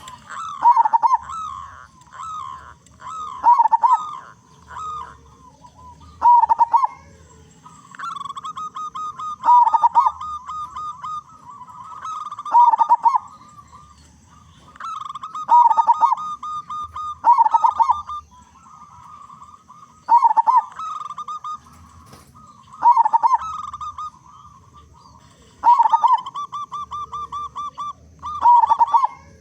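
Zebra doves (perkutut) cooing: a loud, rolling, rapidly pulsed coo phrase repeated about every three seconds, with a softer trilling coo running between them.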